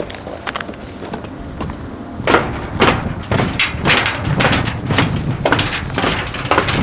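Footsteps walking along a dock, a steady pace of about two steps a second, getting louder about two seconds in, over low rumbling movement noise.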